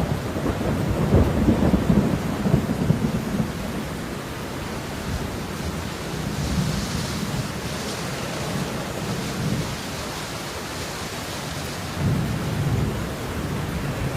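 Steady rain with low rumbles of thunder, loudest in the first few seconds and again near the end.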